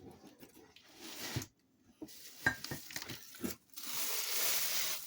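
Wrapping material rustling and crinkling while ceramic mugs are handled, with a few light knocks in the middle and a longer stretch of crinkling near the end.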